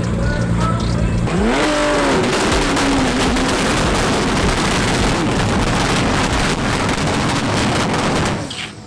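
Nissan GT-R drag car's twin-turbo V6 idling, then revved hard about a second in and held at high revs with a rough crackling exhaust for about seven seconds in the water box before the burnout, dropping away near the end.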